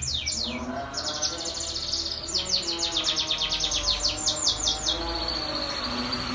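Domestic canary singing in fast trills: runs of short, high, falling notes repeated about ten a second, shifting into a steady high note about five seconds in.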